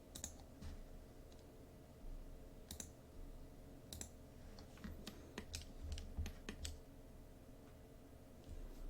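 Faint, irregular clicking at a computer, mouse and keys, about a dozen clicks over a low steady hum.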